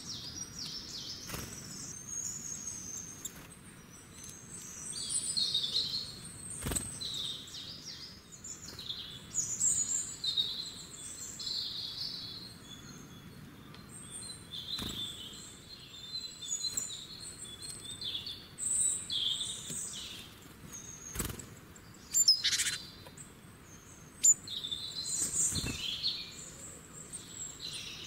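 Small birds chirping and twittering over and over, with a few brief sharp clicks or taps scattered through, two of them louder near the end.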